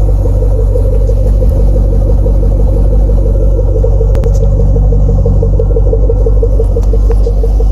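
2010 Camaro SS's 6.2-litre V8 idling steadily after a cold start, heard through its near-stock exhaust with Flowmaster tips.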